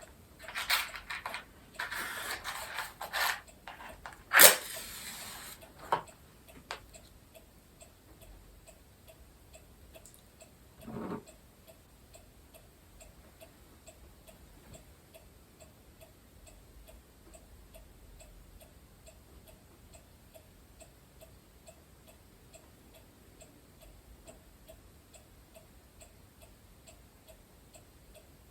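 Rustling handling sounds with a sharp click about four seconds in, then steady, evenly spaced ticking like a clock.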